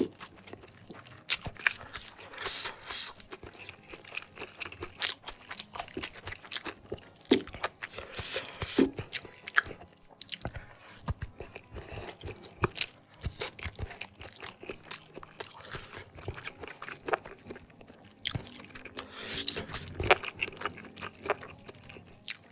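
Close-miked chewing of a mouthful of crispy fried chicken with rice and sambal: irregular crunches and mouth clicks.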